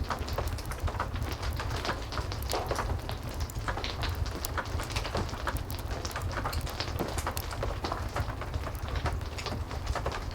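Heavy rain mixed with a crackling wood fire: steady rain noise over a constant low rumble, with frequent sharp pops and snaps from the fire.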